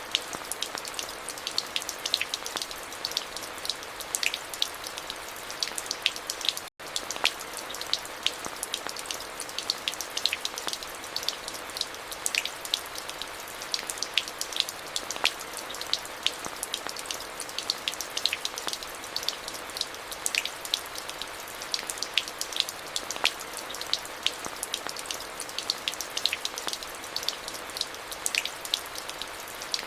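Steady rain: an even hiss with many distinct close drops tapping over it. The sound cuts out for an instant about seven seconds in.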